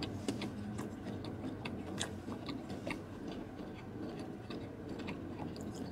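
A person chewing a mouthful of ribeye steak: a string of faint, irregular mouth clicks.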